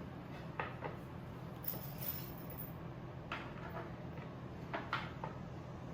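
Drawer parts being fitted together by hand: a few light knocks and a brief scrape about two seconds in, over a low steady hum.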